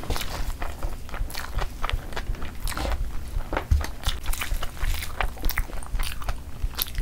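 Close-miked chewing of a mouthful of chicken and biryani rice, with a dense run of irregular mouth clicks.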